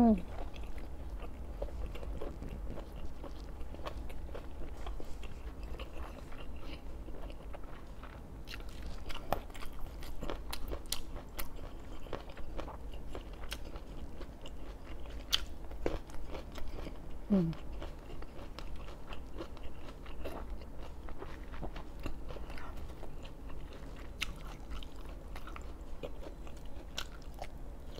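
A person chewing and biting food, with scattered sharp, crisp crunches. There is a short hummed "mm" about 17 seconds in.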